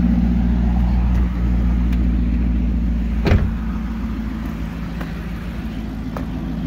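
Maserati GranTurismo MC's 4.7-litre V8 idling steadily, with a single thump about three seconds in.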